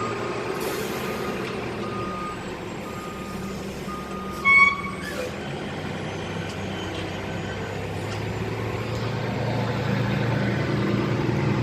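Garbage truck backing up: its reversing alarm beeps about once a second while the diesel engine runs, the engine growing louder in the second half. A brief loud pitched sound about four and a half seconds in stands out above the rest.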